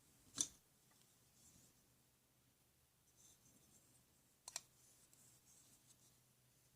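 Near silence broken by a sharp click about half a second in and a quick double click about four and a half seconds in, with faint rustling between.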